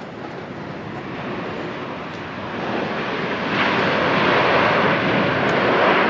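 Jet airliner engines, a steady rushing noise that grows louder about halfway through and steps up sharply a little after.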